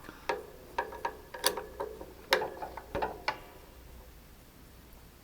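Hand work on a part at the workbench: about seven sharp clicks and knocks, irregularly spaced, over the first three and a half seconds, then it goes quiet.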